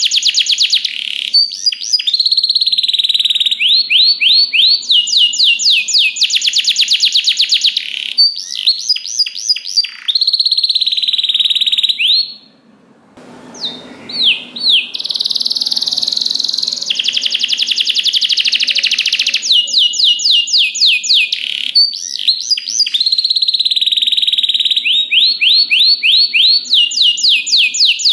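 Domestic canary in full song: long, loud runs of fast trills and rapid series of repeated rising notes, with one brief break a little before the middle.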